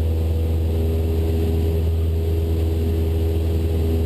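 Cessna 172 Skyhawk's piston engine and propeller running steadily in flight, a constant low drone with a few steady tones above it.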